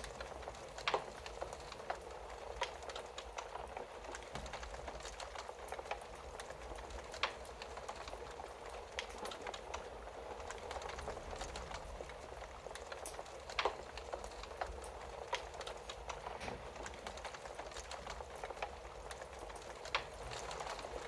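Wood fire burning in a fireplace: a steady soft hiss with constant irregular crackling and a handful of sharper, louder pops spread through.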